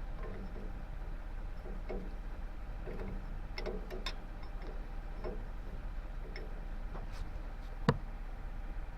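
Scattered light clicks and taps of hand tools on the tractor's metal steering hose fittings, with one sharper knock about eight seconds in.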